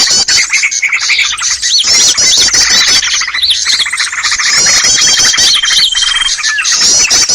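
Dense chorus of many small songbirds chirping, trilling and calling over one another, a bird-trapping lure recording meant to draw in small wild birds. A single steady whistle is held for over a second about two-thirds of the way through.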